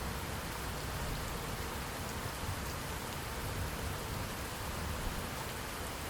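Steady rain falling: an even hiss with scattered drop ticks and a low rumble underneath.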